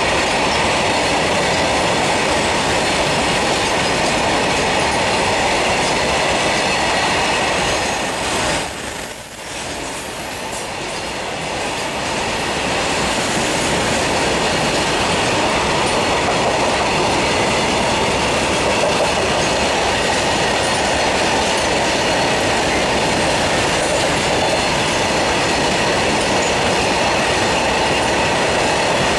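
Freight train of hopper wagons rolling past at speed: a steady, loud rumble and clatter of wagon wheels on the rails, briefly quieter about nine seconds in.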